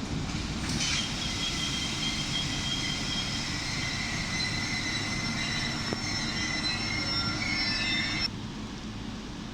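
Train wheels squealing on the rails in several high, steady tones over a low rumble of a train moving through the station; the squeal stops abruptly about eight seconds in.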